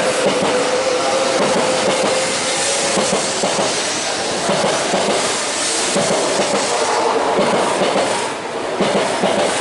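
An E4 series MAX double-decker Shinkansen train running close by, with steady loud wheel and rail noise and a faint tone early on. The noise eases slightly near the end.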